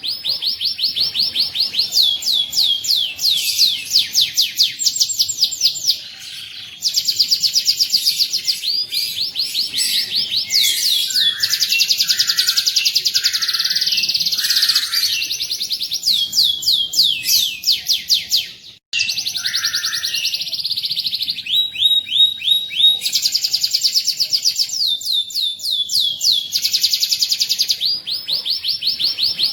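Domestic canary singing continuously in rolling trills: long rows of quick falling notes repeated many times a second, the phrases changing pitch and speed, with a few lower whistled notes in the middle. The song breaks off for an instant about two-thirds of the way through.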